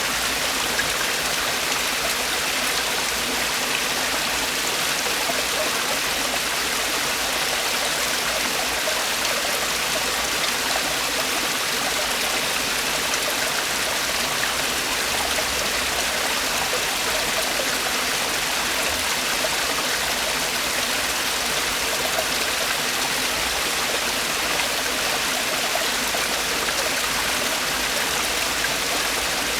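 Mountain stream water falling and splashing over rocks, a steady even rushing with no break.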